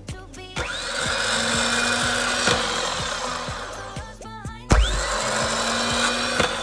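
Rebuilt Mitsubishi 12V starter motor (M8T50471) being run on test. It spins up with a quick rising whine about half a second in and runs steadily for about three and a half seconds, then winds down. It kicks in again with a heavy thud just before five seconds and runs on.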